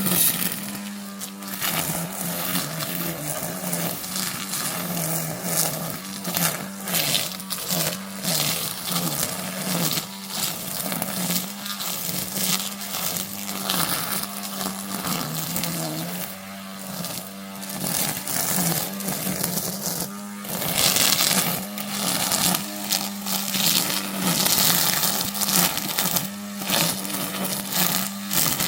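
Battery-powered string trimmer running with a steady, even-pitched motor buzz, with repeated irregular rushes of noise as it cuts through grass and weeds.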